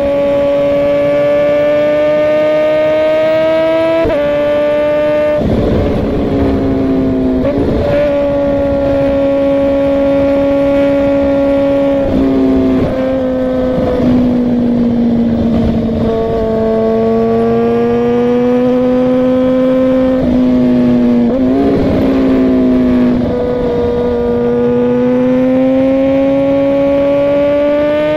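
Suzuki GSX-R 1000's inline-four engine at cruising speed, recorded from a helmet-mounted camera. Its note drifts slowly up and down and drops abruptly several times, as at upshifts.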